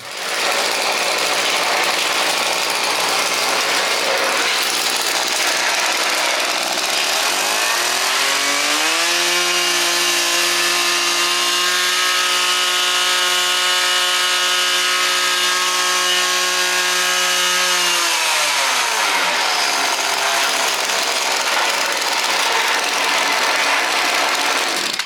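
Maruyama MKF-266 paddy ditcher's 26 cc two-stroke engine running. About a third of the way in it revs up to a higher steady pitch, holds for about ten seconds, then drops back to idle.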